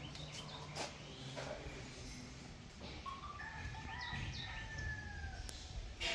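Faint outdoor ambience with a bird calling: one drawn-out call, falling slightly in pitch, about halfway through.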